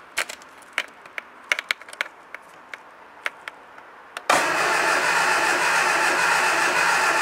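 A few scattered light clicks, then about four seconds in the starter motor suddenly begins cranking the Triumph Dolomite 1300 engine in a steady spin. The HT lead is off the coil, so the engine is being turned over without firing to build oil pressure.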